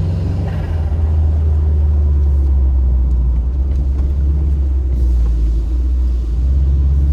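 Subaru Impreza WRX's turbocharged flat-four engine running under way: a steady, deep, low rumble.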